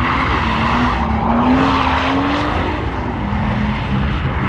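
A car drifting: its engine is held at high revs, its pitch climbing, dipping about three seconds in and climbing again, over the continuous screech of sliding tyres.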